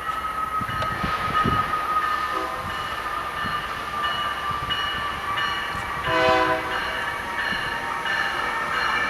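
Train running through the station, with steady rail and machinery noise and a short blast of a train horn about six seconds in.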